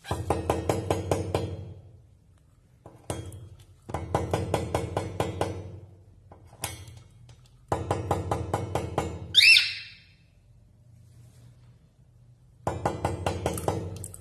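Rapid tapping on a hard surface in four bursts of one to two seconds each, about eight taps a second. About nine and a half seconds in there is one short, high bird call that rises and falls, typical of a parrot.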